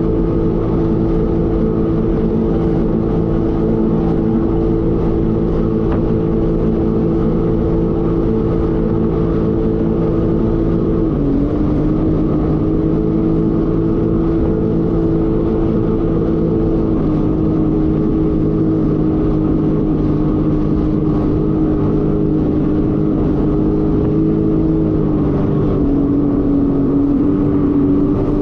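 Jet ski engine running at a steady cruising speed over a rushing hiss, its note dipping slightly three times as the throttle eases back.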